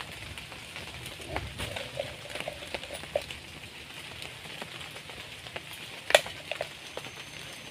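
Steady light rain patter in the forest, with scattered small knocks and clicks from work on a wooden pole shelter frame and one sharp knock about six seconds in.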